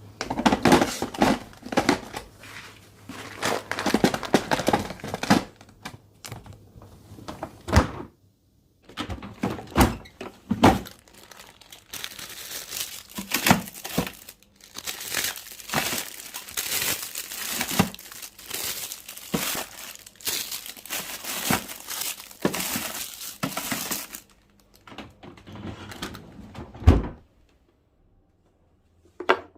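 Packaging crinkling and rustling as food is handled and refilled into storage containers, with many clicks and knocks of containers. A long stretch of steady crinkling comes in the middle, and one loud thump near the end.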